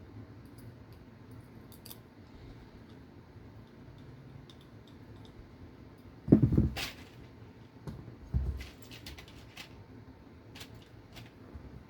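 Small RC car parts and hand tools being handled on a workbench: scattered light clicks and ticks, a loud thump about six seconds in and a softer one around eight and a half seconds.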